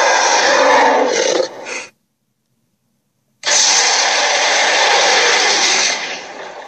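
Two loud, rough creature-roar sound effects. The first fades out within the first two seconds; after about a second and a half of dead silence, the second starts suddenly and fades away near the end.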